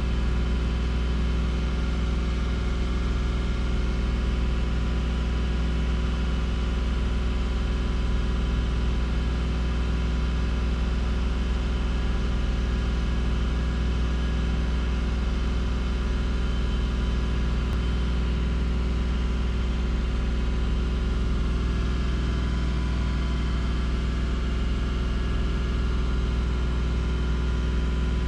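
Subaru Outback's flat-six engine idling steadily, warm and near operating temperature after a coolant refill.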